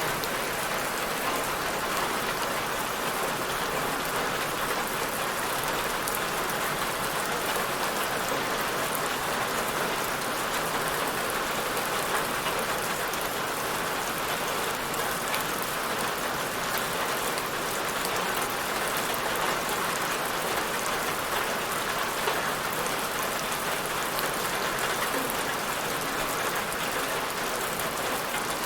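Steady rainfall, an even hiss of many drops falling on a surface, with no change in strength.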